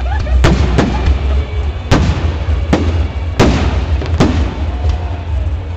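Fireworks display: a series of sharp bangs, about seven in six seconds, some with a short echoing tail, over a steady low rumble.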